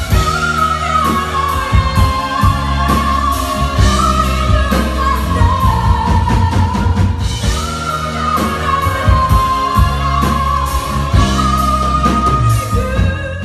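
A singer sings long held notes live over a pop band with drums. The music breaks off suddenly near the end.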